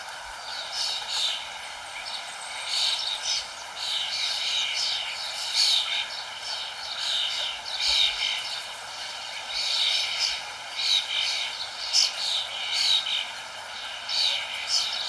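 Many small birds chirping in quick, overlapping high-pitched bursts, one after another every second or so, over a steady low background rush.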